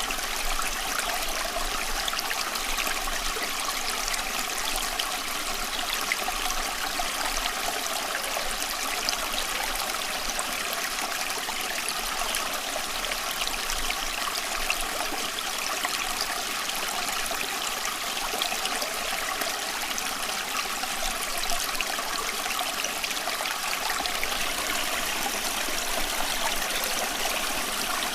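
Steady running water: a continuous, even flowing sound with no breaks or changes.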